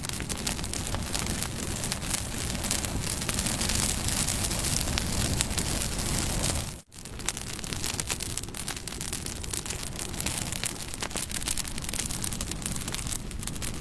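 Bonfire burning: a steady rushing hiss packed with many sharp crackles and pops of burning wood. The sound cuts out for an instant about halfway, then resumes.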